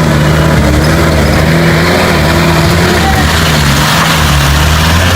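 Car engine running steadily, with a low hum that wavers a little in pitch under a loud rushing noise.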